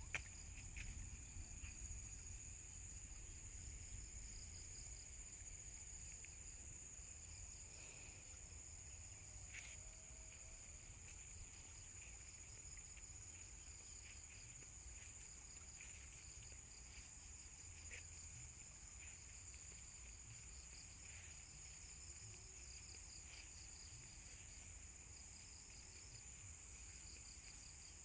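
Faint insect chorus: a steady high-pitched trill with a rapidly pulsing note beneath it. There are scattered short chirps and a few clicks over a low rumble.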